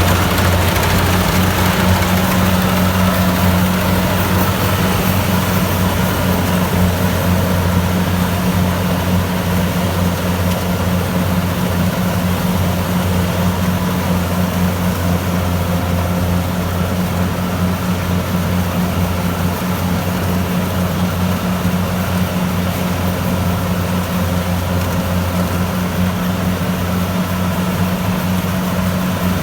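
Kubota DC-70 Plus rice combine harvester running at a steady speed, its diesel engine giving an even, unbroken low drone.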